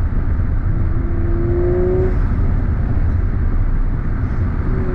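Inside the cabin of a 2019 Audi RS5 with its twin-turbo V6, a steady low engine and road rumble, with a slightly rising whine from about one second in that stops just after two seconds, as the car accelerates.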